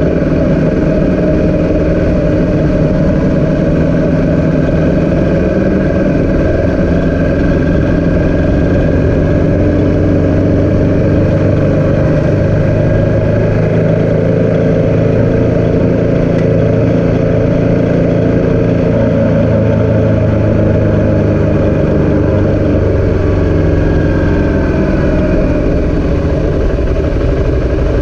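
Engine running steadily, its pitch drifting slowly up and down.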